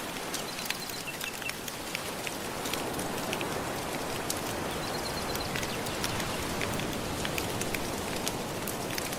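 Wood fire crackling with sharp irregular pops over a steady wash of gentle surf lapping on the shore. A few brief, faint high whistles come through now and then.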